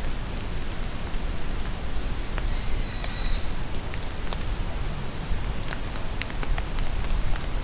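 Steady rain with single drops ticking close by. A few short, high bird chirps come through, and a brief bird call sounds about three seconds in.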